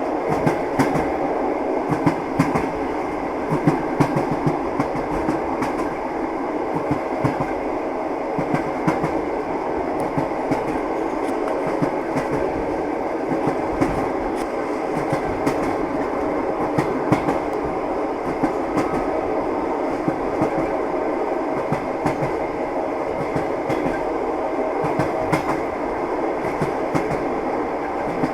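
Train wheels clattering over rail joints as a railway carriage runs steadily along the track, over a continuous rumble, with irregular knocks and clicks.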